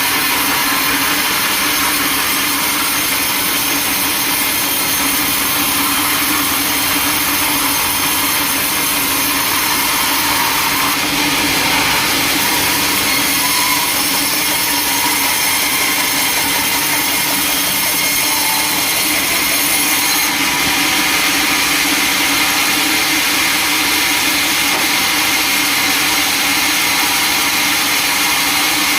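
Sawmill machinery running: a loud, steady mechanical noise with a constant low hum under it.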